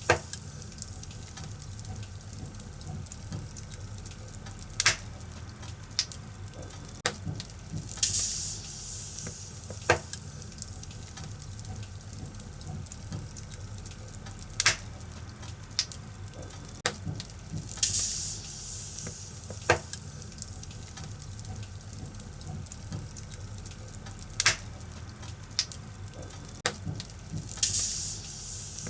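Wood fire burning in a fireplace: a steady low rumble of flames with sharp crackles and pops every second or two, and brief hissing bursts now and then.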